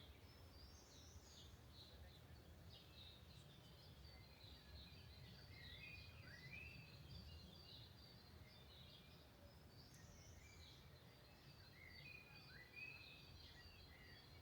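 Faint songbirds singing, many short chirps and sliding whistles, over a quiet low background rumble.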